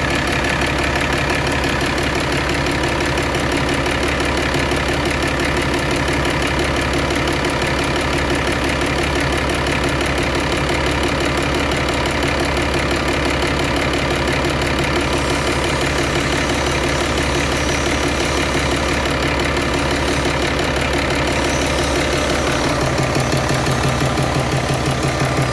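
Mitsubishi 6D22 inline six-cylinder diesel engine of a water pump set running steadily. It grows slightly louder in the last few seconds.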